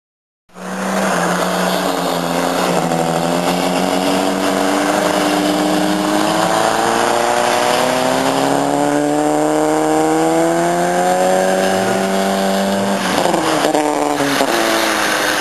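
Vehicle engine held at high revs, its pitch climbing slowly and steadily for about twelve seconds, then dropping sharply near the end as the throttle comes off. A steadier, lower engine note runs underneath.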